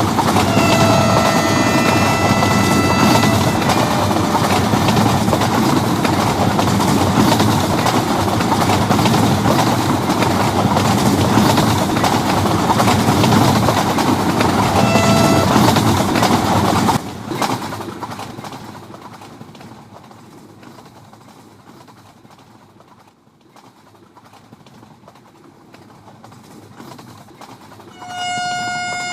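Loud rushing and rail noise of a Vande Bharat Express train running at speed, with a two-note horn sounding about a second in and again briefly around fifteen seconds in. The noise drops off abruptly about seventeen seconds in and fades away. Another long horn blast starts near the end.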